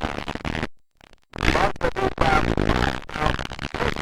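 Motocross dirt bike engines running loud, with a brief dropout to near silence about a second in.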